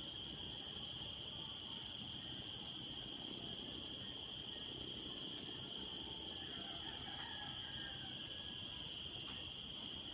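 A steady, high-pitched chorus of insects trilling without a break, over a low background rumble.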